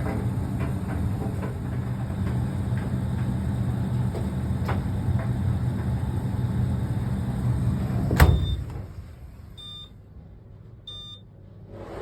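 Fisher & Paykel ED56NZ clothes dryer running, a steady motor and drum rumble with faint ticks of the load tumbling, then a sharp clunk about eight seconds in as it stops. Two short electronic beeps follow, the dryer's end-of-cycle signal.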